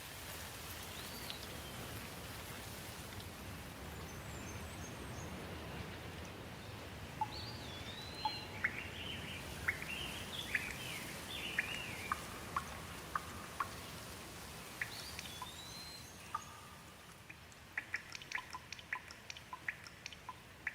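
Steady rain with birds calling over it: a few rising-and-falling whistled calls and a busy run of chirps in the middle. Near the end, water drops fall in a quick, irregular patter of sharp drips.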